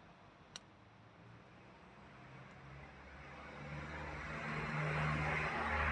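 A road vehicle passing, its engine hum and tyre noise swelling from about halfway through and loudest near the end.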